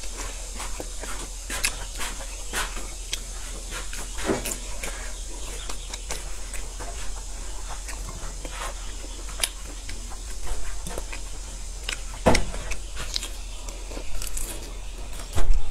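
Close-miked chewing and mouth sounds of a person eating grilled sausage: irregular wet clicks and smacks, a few of them louder. A steady low electrical hum runs underneath.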